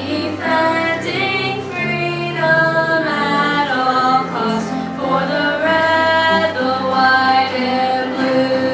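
Children's choir singing a song with accompaniment, long held notes moving from pitch to pitch over steady low backing notes.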